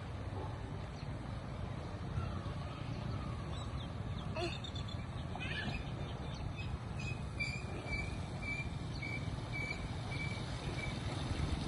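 Birds chirping, with a short call repeated about twice a second in the second half, over a steady low rushing noise.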